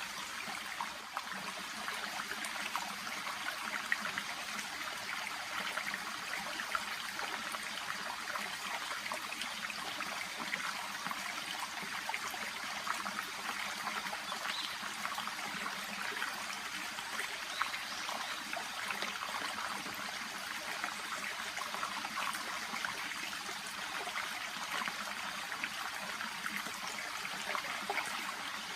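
A shallow babbling brook, water trickling and burbling steadily over and around stones and water plants, with fine splashy detail throughout.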